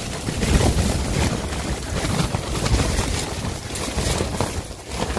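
Strong gale-force wind gusting hard against the microphone, a loud uneven rush and buffeting with rapid crackling pops.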